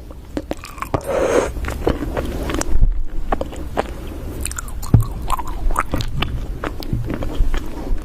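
Close-miked eating: repeated crunchy bites and wet chewing, with sharp crackles scattered throughout.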